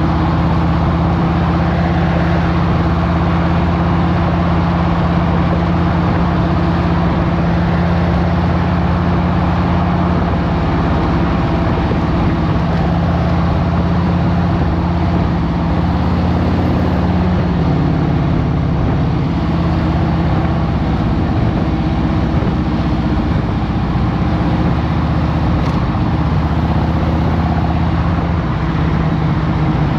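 2023 Harley-Davidson Road Glide Special's Milwaukee-Eight 114 V-twin running steadily, its note shifting slightly a little past halfway through.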